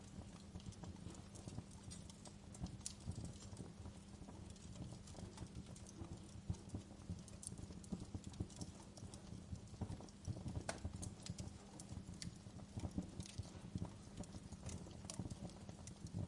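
Wood campfire burning, with irregular crackles and sharp pops of the burning wood.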